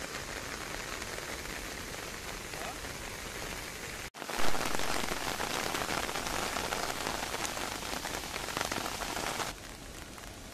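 Steady rain falling on the surface of a lake. About four seconds in the sound drops out for an instant, then comes back heavier and louder with one sharp peak, and eases back to the lighter rain near the end.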